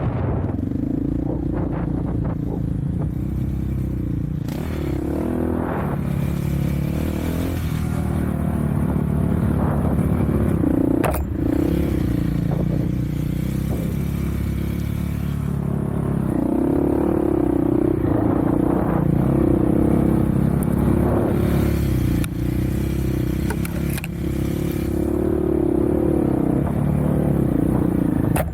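Off-road vehicle engine running under way, its pitch rising and falling again and again as the throttle is worked, with scraping and rattling over it.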